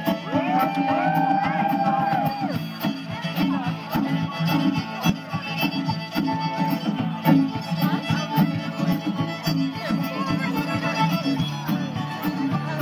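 Live bluegrass band playing an instrumental break: a fiddle leads, holding a long sliding note near the start, over a steady chugging rhythm.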